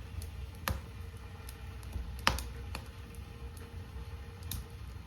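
Wood fire crackling: irregular sharp pops and snaps, a few louder ones a second or two apart, over a low steady rumble.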